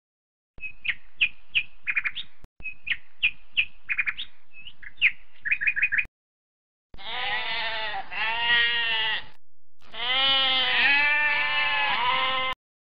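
Great tit calling, a run of short, sharp chirps lasting about five seconds. Then a sheep bleats twice, each bleat long and wavering.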